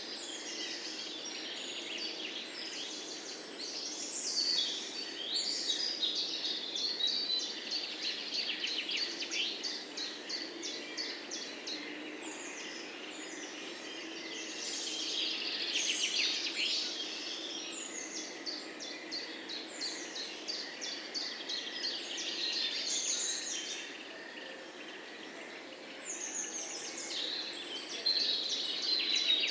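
Several songbirds chirping and trilling over one another in quick, overlapping phrases, over a steady low background hum.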